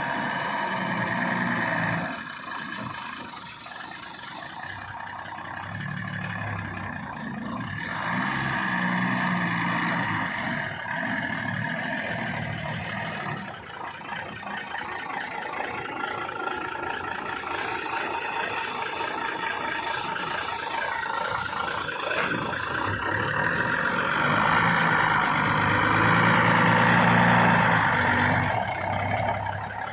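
Heavy truck's diesel engine running and being revved, its pitch rising and falling as it pulls away and eases off. A steady hiss rises over it for several seconds midway.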